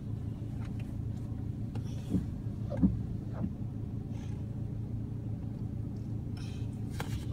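Mini Cooper engine idling with a steady low hum, with a few faint clicks.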